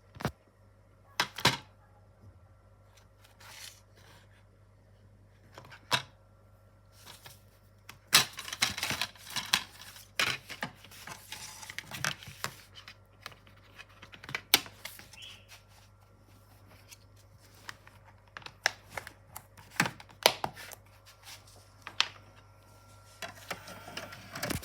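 Handling noises from a plastic DVD case and its packaging: scattered sharp clicks and snaps, turning into a denser run of rustling and clicking from about eight seconds in, over a faint steady electrical hum.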